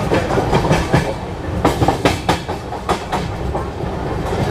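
Passenger train running along the track, heard from on board a coach: a steady low rumble, with a run of sharp clacks from the wheels crossing rail joints near the middle.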